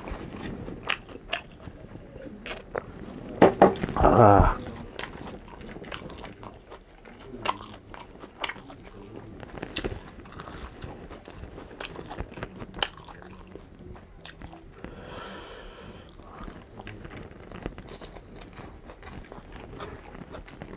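Close-miked eating of chicken fried rice and chicken: chewing and biting with many small mouth clicks and smacks scattered throughout. A short louder mouth sound comes about four seconds in.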